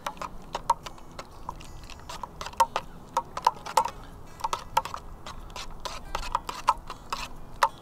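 Rapid, irregular sharp clicks and light taps, several a second, over a faint low background.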